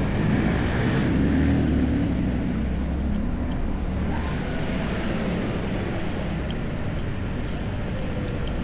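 City street traffic: a vehicle engine rumbles close by for the first few seconds and then fades, over a steady wash of traffic noise.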